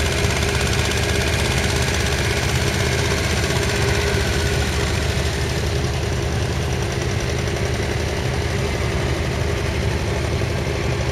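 A sand boat's engine running steadily with a fast, even chugging beat.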